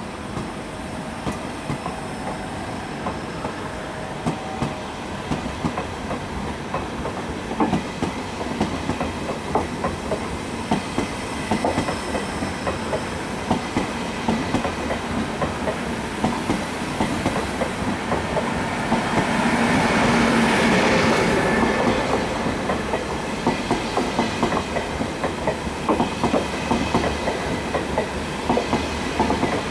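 ÖBB Railjet passenger train rolling along a station platform track, its wheels clicking over rail joints and points in a steady clickety-clack. About twenty seconds in, the running noise swells louder for a few seconds.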